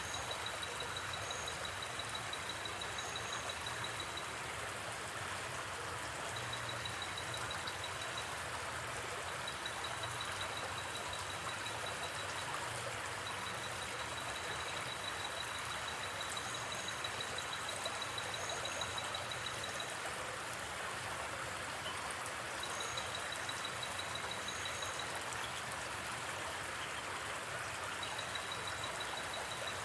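Steady rush of a gently flowing river, with a high, fast trill of night insects coming in runs of a few seconds.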